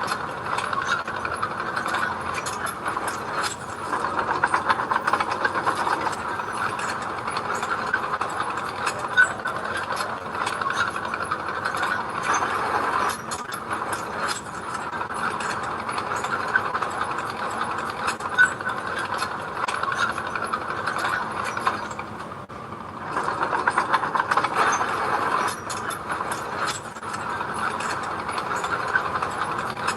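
Construction machine's engine running steadily under work, with a constant rattle of fine clicks and clatter; the sound drops briefly about 22 seconds in, then picks up again.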